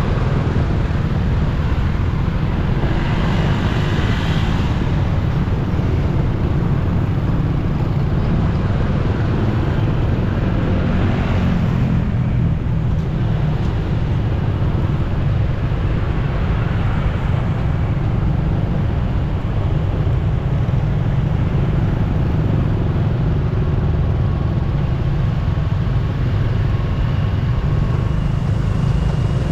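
Motorcycle riding in city traffic: a steady low rumble of engine and road noise, with other vehicles passing now and then.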